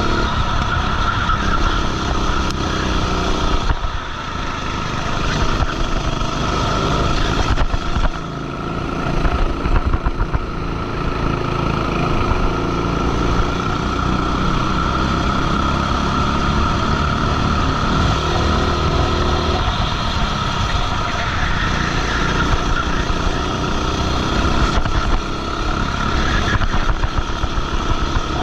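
Racing kart engine running hard on track, dropping briefly about four and eight seconds in as the throttle is lifted for corners, then rising again under acceleration.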